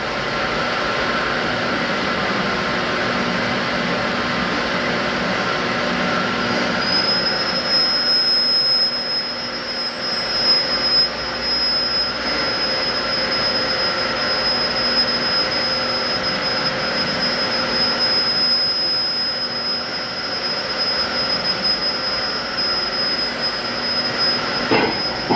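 A train running on the rails with a steady rumble; about seven seconds in, a thin high-pitched squeal sets in and holds.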